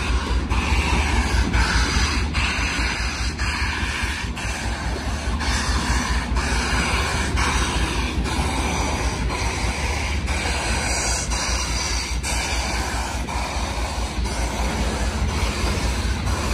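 Steam-hauled passenger train rolling slowly past close by: its wheels click at short, uneven intervals over the rails above a steady rumble and hiss.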